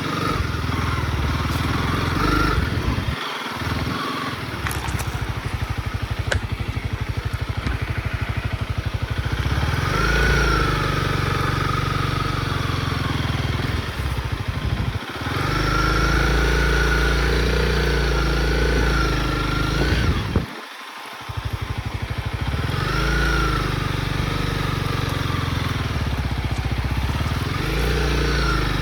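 Honda CRF dirt bike engine running under way, its pitch rising and falling with the throttle. The sound drops out briefly twice, about 3 seconds and 21 seconds in.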